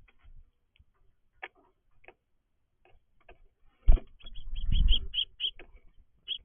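Birds chirping at a backyard feeder: scattered single chirps, then a sharp knock about four seconds in, followed by a low rumble and a quick run of chirps.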